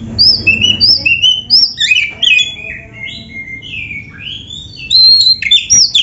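Oriental magpie-robin (kacer) singing: a run of repeated, quickly sliding whistled notes, turning louder and busier about five seconds in.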